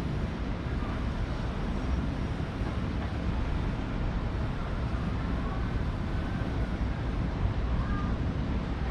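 Steady low rumbling noise of an outdoor recording, with a few faint, brief higher tones in the second half.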